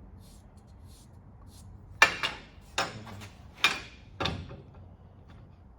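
Faint short scratches, like a marker being drawn on a part, then four sharp clunks of hard objects knocking together, each ringing briefly.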